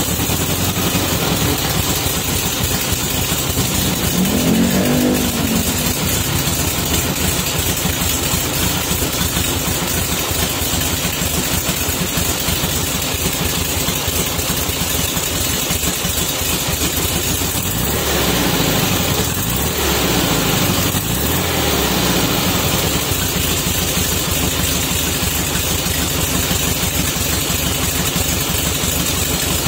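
A 1969 VW bus's 1691cc air-cooled flat-four, with a Weber 34 ICT carburettor, running through a Vintage Speed Classic Superflow muffler just after start-up. It idles steadily and is revved once about four seconds in, then blipped a few times about two-thirds of the way through.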